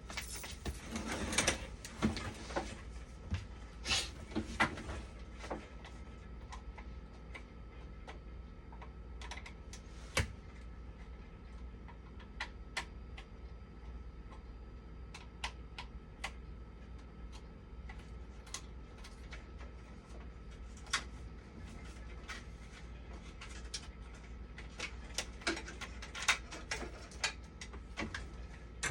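Irregular clicks, taps and scrapes of hand tools and metal parts as the power supply of a dialysis machine is worked on, busiest in the first few seconds and again near the end. A faint steady hum runs underneath.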